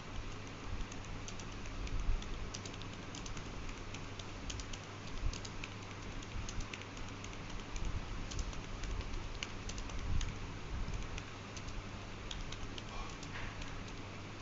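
Typing on a computer keyboard: quick, irregular key clicks, with a steady low hum underneath.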